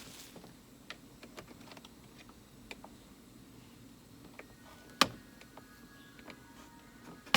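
Plastic steering-column trim being worked loose by hand: scattered light clicks and taps, with two sharp plastic snaps, one about five seconds in and one at the very end, as its clips pop free.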